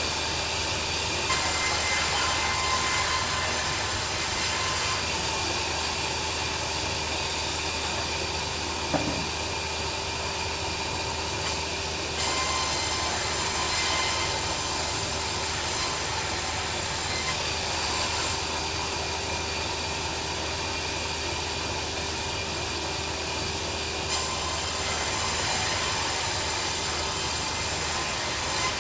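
Band sawmill running steadily with a constant hum as its blade saws lengthwise through timber. The sawing noise turns harsher in spells of several seconds.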